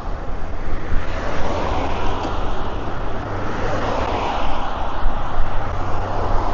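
Motorway traffic rushing past a cyclist, the noise swelling and fading as vehicles go by, over a low rumble of wind on the microphone.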